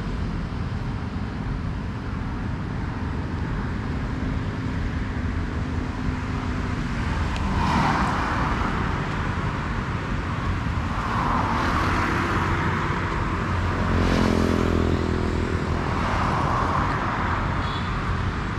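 Road traffic: a steady low engine rumble, with vehicles passing several times, each swelling and fading away.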